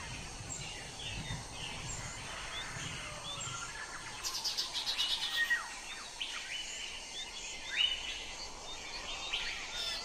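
Wild birds calling and chirping: short chirps and whistles throughout, with a fast rattling trill about four seconds in and a sharp loud call near eight seconds.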